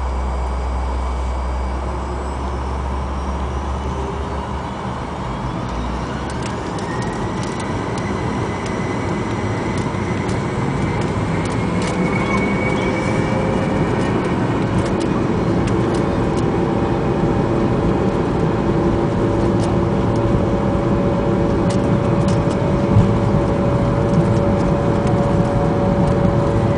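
Fokker 100's rear-mounted Rolls-Royce Tay turbofans heard from inside the cabin, spooling up with a rising whine a few seconds in, then a steady loud roar of engine and airflow that keeps slowly building as the jet accelerates on take-off.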